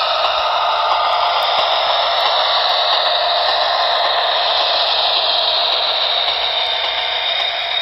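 Model SD70ACe diesel locomotive's onboard sound system playing its diesel engine sound through a small speaker while the model runs, a steady hissing drone with faint tones that slowly drift in pitch.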